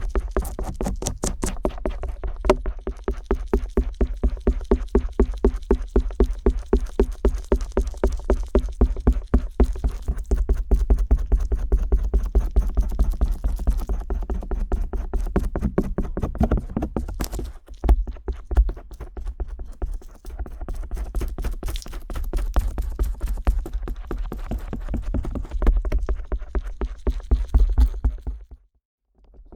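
Stainless steel ear pick tapping and scraping rapidly on the silicone ear of a binaural 3Dio microphone: a close, even run of sharp clicks, several a second, broken by a brief stop near the end.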